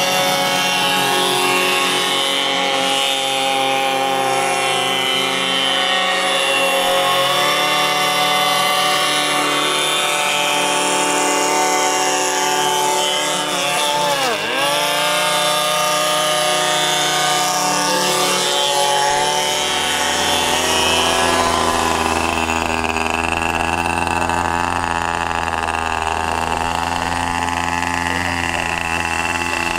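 Small model engines of an RC airboat running with propeller buzz at a high, steady pitch. About halfway through the pitch swoops down and quickly back up, and a few seconds later it settles into a lower, deeper steady run as the throttle comes back.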